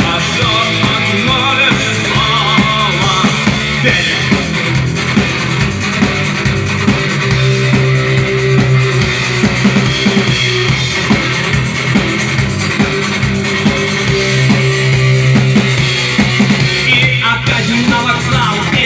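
Rock band playing live: a drum kit keeps a steady beat under guitar.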